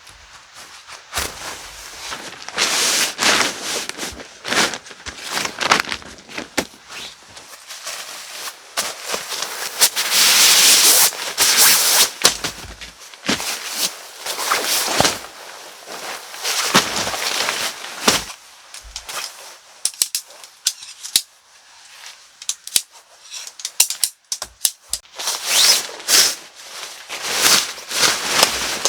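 Irregular rustling with many sharp knocks and clicks, loudest for a couple of seconds about ten seconds in and again near the end.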